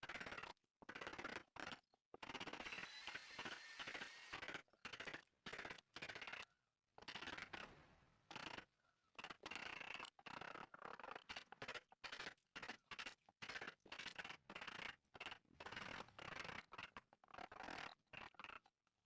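Hand tools scraping and cutting wood in short, irregular strokes, with abrupt stops between them.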